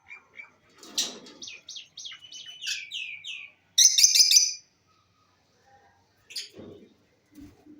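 Lovebirds chirping: a run of short, falling chirps, then a loud burst of rapid high-pitched chirps about four seconds in, and one more chirp near the end.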